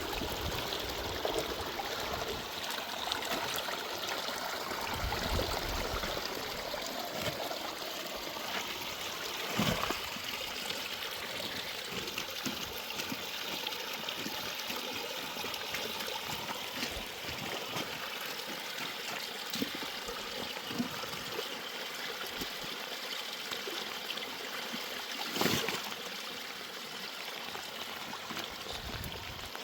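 Stream water flowing and trickling steadily, with a couple of short knocks, one about ten seconds in and another near the end.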